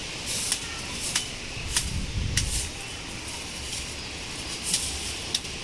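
Storm rain with strong gusting wind: a steady hiss with scattered sharp taps, and a gust rumbling on the microphone about two seconds in.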